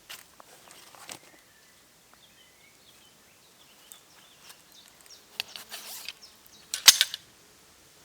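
A few sharp knocks and clatters, the loudest close to the end, with faint chirping in a quieter stretch before them.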